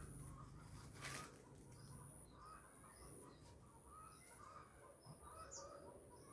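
Faint bird chirps, short notes repeated about twice a second, over a thin high steady tone that breaks off and resumes every second or so. There is a brief rustling burst about a second in.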